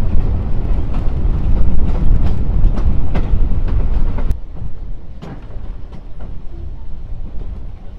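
A steam-hauled train running along the track: a heavy low rumble with scattered wheel clicks and knocks. About four seconds in, the sound drops suddenly to a quieter rumble.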